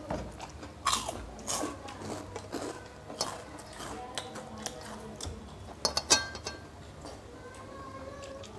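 Chewing and mouth smacks of people eating rice and chicken curry with their fingers, with scattered wet clicks and a cluster of sharper smacks about six seconds in.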